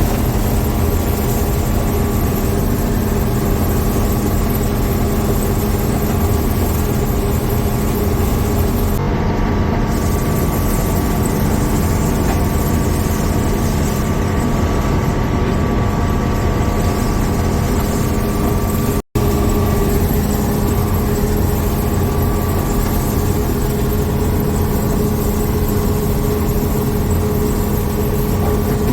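Combine harvester running steadily while harvesting corn: a constant engine and machinery drone with a steady hum, cut off for an instant about nineteen seconds in.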